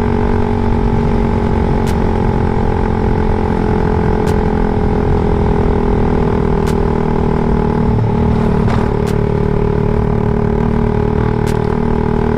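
Suzuki Raider 150 Fi's single-cylinder engine running at a steady low speed through an aftermarket CHA open exhaust pipe, loud, with a few sharp clicks over it.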